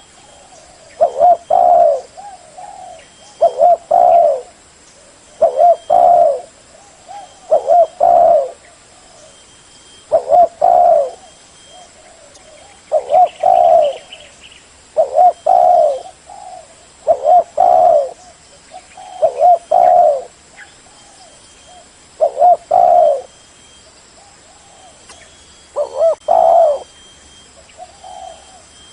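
Spotted dove cooing: a short, low, hoarse coo phrase repeated about every two seconds, with a couple of slightly longer pauses between phrases.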